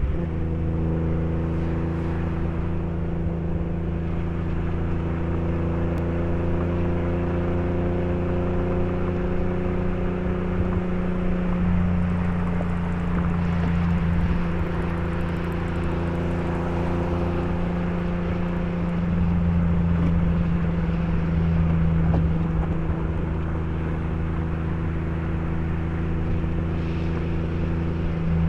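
BMW E30 323i's straight-six engine running at steady cruising revs, an even drone that drifts only slightly up and down in pitch.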